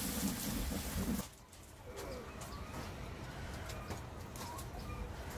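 A low steady hum that cuts off about a second in, then faint short bird calls a few times, with light clicks from hands working cooked eel off the bones in a steel bowl.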